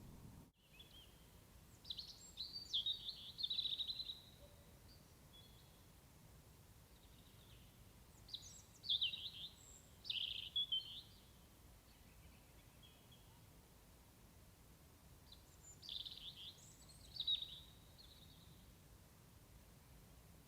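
A small songbird singing three short bursts of quick, high chirping notes, several seconds apart, over a faint steady outdoor background.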